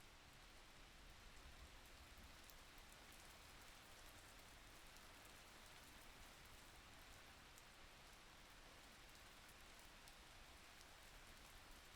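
Faint, steady rainfall, an even hiss with scattered small drop ticks.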